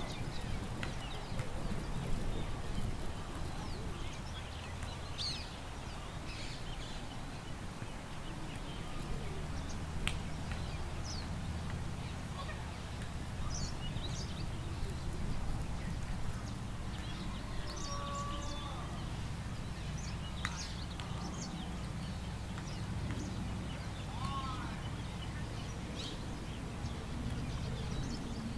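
Park ambience: scattered short bird chirps and calls over a steady low rumble of wind.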